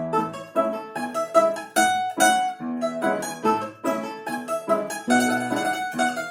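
A plucked string instrument plays a tune in quick, sharply plucked notes, with piano accompaniment.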